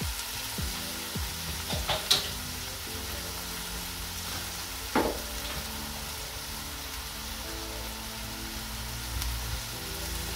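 Chopped spring onions and garlic sizzling in very hot fat left from cooking a steak in a frying pan, a steady hiss with a few sharp clicks: the aromatics have just gone into the hot fat at the start of a sauce.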